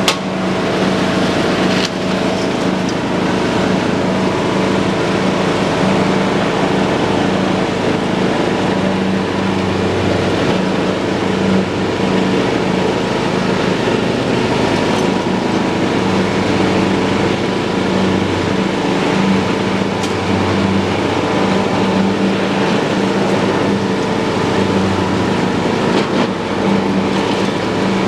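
John Deere lawn tractor running steadily while mowing grass, its engine hum and the cutting deck going without a break.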